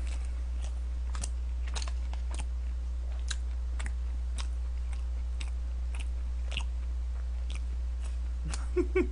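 A man chewing a mouthful of lunchbox food close to the microphone, with short wet mouth clicks about once or twice a second. A steady low hum runs beneath.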